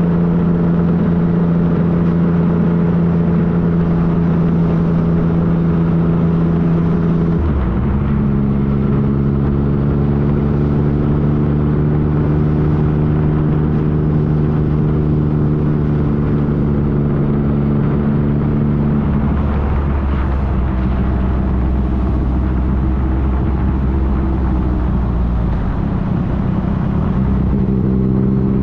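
2015 Yamaha FJ-09's three-cylinder engine running steadily while the motorcycle is ridden, under wind and road noise. The engine note steps down to a lower pitch about seven seconds in, changes again about two-thirds of the way through, and once more near the end.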